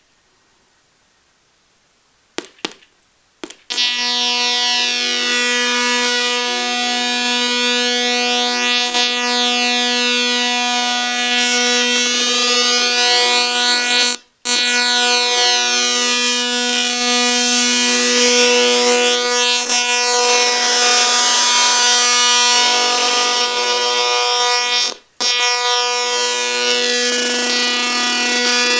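A few clicks, then a loud buzzy electronic tone with many overtones, played through small LED-lit speakers. It cuts out briefly twice.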